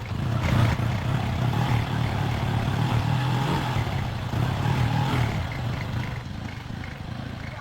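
A motor running: it starts abruptly, runs steadily with a deep hum, and fades away over the last couple of seconds.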